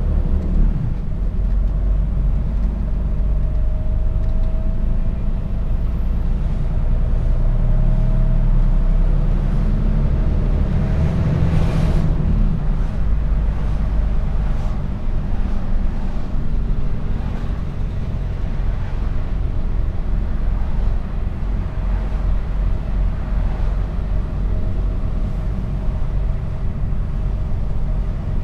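Mercedes-Benz Actros truck driving, heard from inside the cab: steady diesel engine and road rumble with the engine note slowly shifting, and a short hiss about twelve seconds in.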